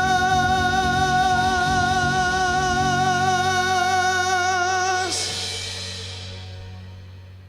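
Male singer holding the final sung note of a ballad with an even vibrato over a live band, releasing it about five seconds in. The band's closing chord, with a brief crash, then rings out and fades away.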